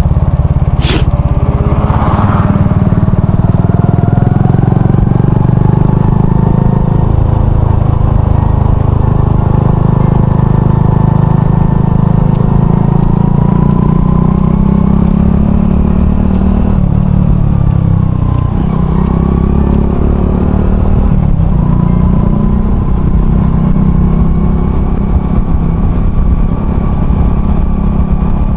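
Honda Cross Cub 110's single-cylinder engine, fitted with an aftermarket RPM Raptor muffler, running while the bike is ridden, its pitch rising and falling with speed, over a heavy wind rumble on the microphone. A sharp click about a second in.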